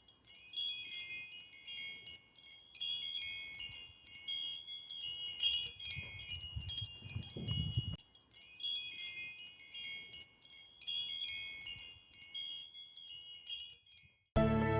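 Wind chimes tinkling, many light metallic tones struck at random and ringing over each other, cut off shortly before the end.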